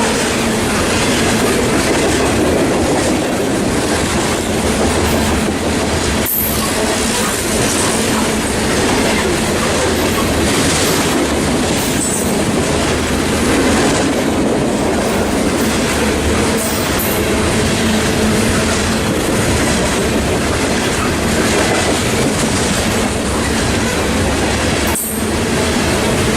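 CN coal train's hopper cars rolling past on the rails, with a steady clatter of wheels over the track and brief high-pitched wheel squeals now and then.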